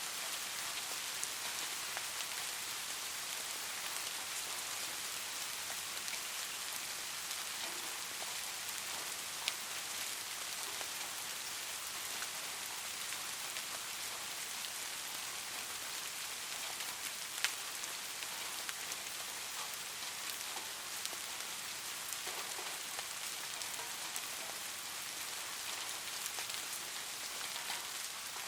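Light rain falling steadily: an even, high hiss with scattered tick-like drops, two of them sharper, about a third of the way in and a little past halfway.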